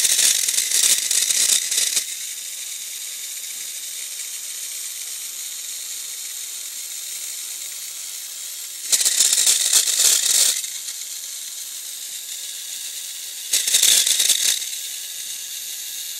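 Tamiya Mini 4WD Beak Spider's small electric motor and gears whirring in three short bursts, with the tyres rubbing against the body shell: the abnormal noise of body-to-tyre contact. One burst ends about 2 seconds in, one runs from about 9 to 10.5 seconds, and one from about 13.5 to 14.5 seconds, with a steady hiss between them.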